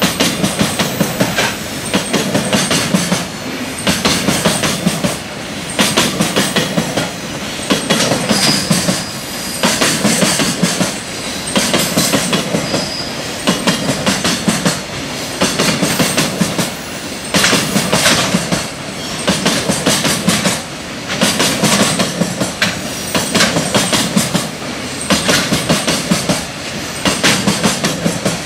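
Long container freight train passing at speed, its wagon wheels clattering over the rail joints in a regular rhythm of clicks that swells and eases as each wagon goes by.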